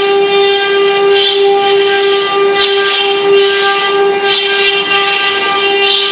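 Multi-head CNC router spindles running with a steady high-pitched whine, joined by short surges of hissing noise that come and go roughly once a second.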